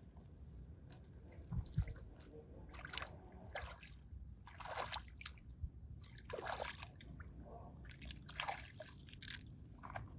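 Small water splashes and drips, irregular, one every second or so.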